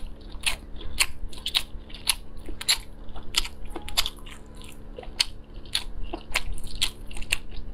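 Close-miked chewing of a spiced sausage: sharp wet mouth clicks and smacks, about two or three a second.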